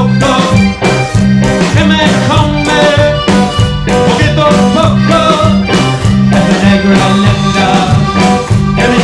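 A live band playing a song, with a repeating bass line under a steady beat.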